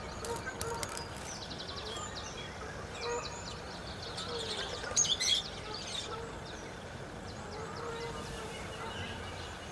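Small birds chirping and trilling faintly over steady outdoor background noise, with a louder, brief call about five seconds in.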